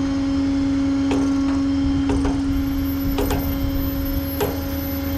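Flatbed tow truck's hydraulics running as the load goes down: a steady pump whine over a low engine rumble, with several sharp clicks along the way.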